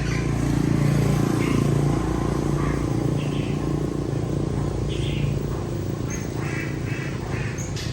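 Small motorbike engine idling steadily, its hum weakening after about five seconds, with short high chirps over it.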